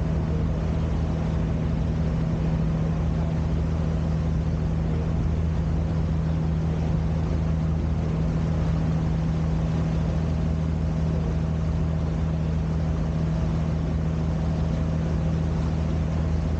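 Sightseeing boat's engine running steadily, a low, even drone that holds one pitch.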